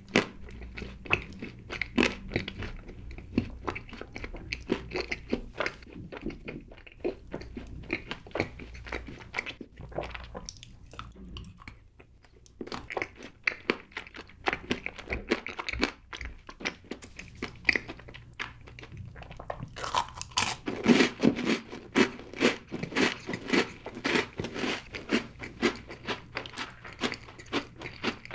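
Chewing and biting chocolate cake: a steady run of small mouth clicks and crunches, busiest about twenty seconds in.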